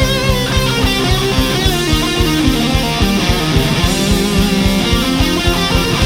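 Instrumental rock music from a band of two guitars, bass and drums: electric guitars playing over bass and a fast, steady drum beat, without vocals.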